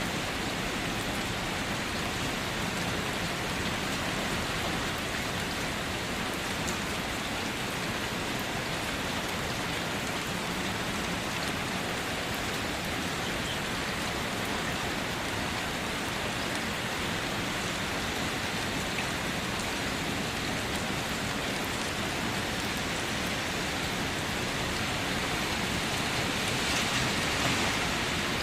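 Steady rain falling on surfaces, a continuous hiss with scattered individual drops, swelling slightly near the end.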